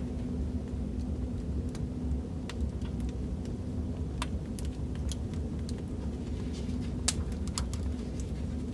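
Wood fire crackling in a fireplace: a steady low rumble with scattered sharp pops and snaps, one louder pop about seven seconds in.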